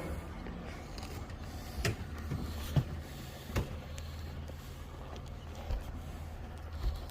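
A steady low mechanical hum, with a few short sharp knocks or clicks now and then.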